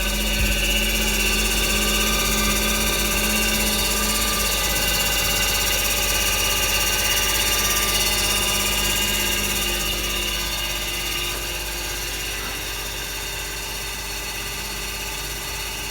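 Washing machine running with a loud, steady mechanical noise: a hum with several steady tones over a hissing wash of sound, easing slightly after about ten seconds. The owner hears it as an abnormal noise from a machine that otherwise works well, cause unknown.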